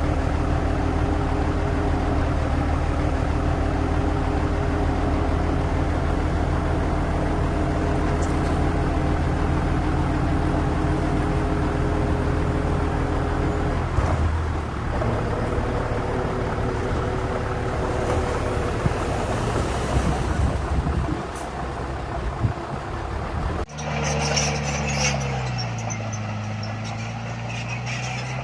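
Diesel engines of heavy earthmoving machinery running under steady load. The engine note changes about halfway through, and near the end the engine pitch drops and then rises again.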